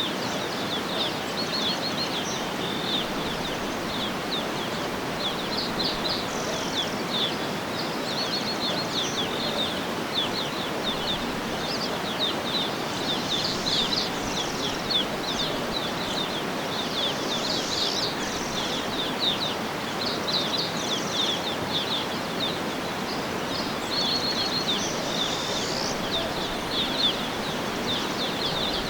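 Many small birds chirping and trilling continuously, with short high calls and a few rapid trills, over a steady even background hiss.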